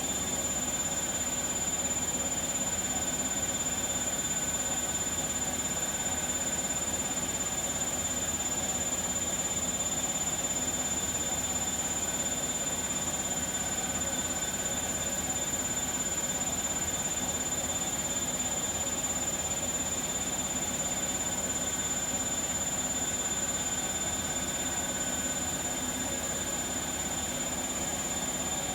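Bosch WAK28260 washing machine running with its drum turning steadily: a constant rumble with a steady high-pitched whine. It does not sound that loud, so there is no obvious roar from the drum bearings suspected of being worn.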